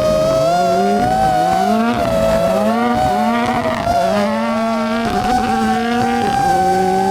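Rally car driven hard, its engine pitch climbing and dropping back again and again as it shifts through the gears, over a steady high whine.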